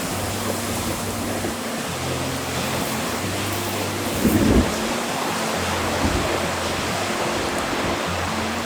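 Strong wind rushing steadily, with soft background music underneath and a brief low thump of wind buffeting the microphone about four and a half seconds in.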